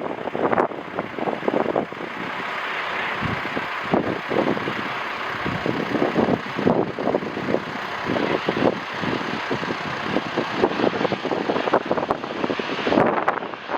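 Strong wind buffeting the microphone in irregular gusts, over the steady rushing roar of jet aircraft engines.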